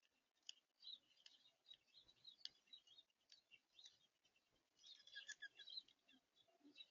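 Faint chirps and short clicks from small birds at a feeder, with a quick flurry of chips about five seconds in.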